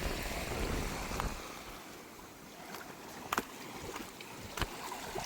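Beach ambience: wind rumbling on the microphone for about the first second, then a quieter wash of water at the shore with a few sharp clicks.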